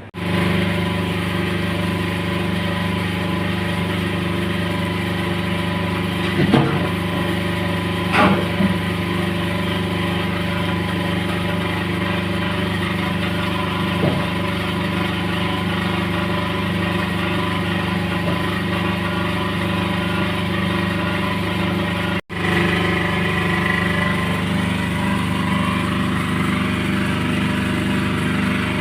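A motor engine running steadily at idle, with a few brief higher sounds over it; the sound cuts out for an instant about two-thirds of the way through.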